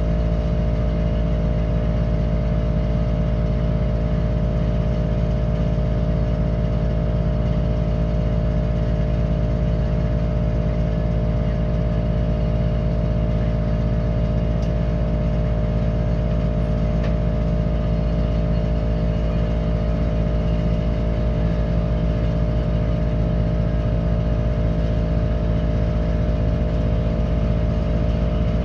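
An engine running steadily at an even speed, with a strong low hum and no change in pitch.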